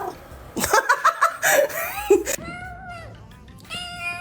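A house cat meowing over background music. Past the middle come two long, drawn-out pitched calls, the second held steady.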